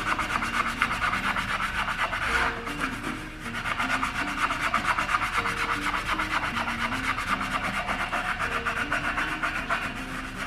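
Wet non-scratch scrub pad with Bar Keepers Friend scrubbing a chrome exhaust tip in fast, steady back-and-forth strokes, with a short pause about three seconds in.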